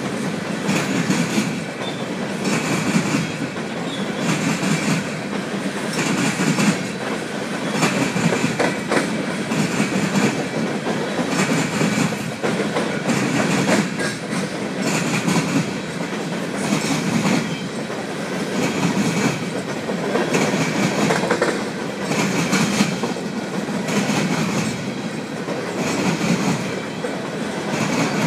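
Empty coal hopper cars of a freight train rolling past at close range, their wheels clicking over the rail joints. The clicks come in a repeating rhythm, a louder group every second or two as each car's trucks pass, over a steady rumble.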